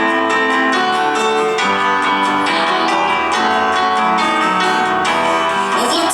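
Acoustic guitar strummed in a steady rhythm, playing an instrumental passage between sung verses of a song.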